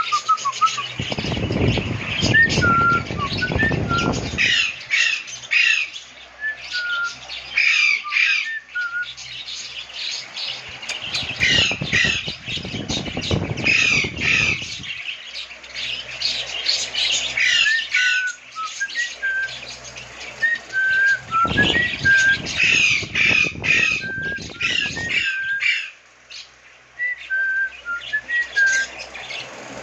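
Pet lovebirds chattering with rapid, shrill squawks and chirps, mixed with some clearer whistled notes. Three times, for a few seconds each, a rough rushing noise comes in under the calls.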